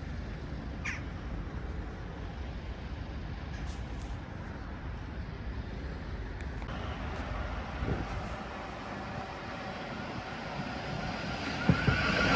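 Steady low rumble of road vehicles waiting at a level crossing, with a train's noise coming in and growing louder near the end.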